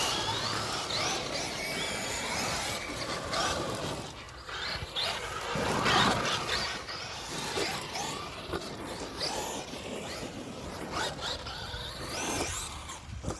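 Electric RC trucks' motors whining as they rev up and down over and over, with rattles and knocks from the trucks on the dirt track; the loudest surge comes about six seconds in.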